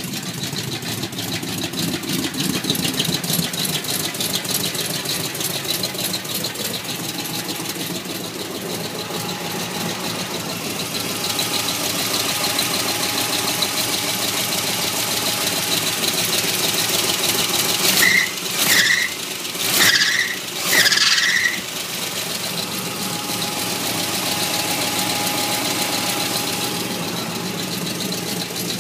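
Pickup truck engine fitted with a new camshaft, running steadily with a fast, even pulse. About two-thirds of the way through, four short high-pitched squeals sound in quick succession.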